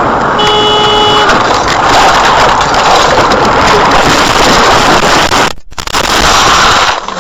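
Loud, steady vehicle road and wind noise as heard in dashcam audio, with a brief steady tone, like a horn or beep, about half a second in. It breaks off for a moment near the end.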